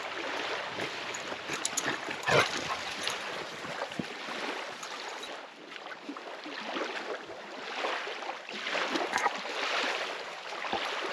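Water rushing and splashing in uneven swells, with a brief louder burst about two seconds in.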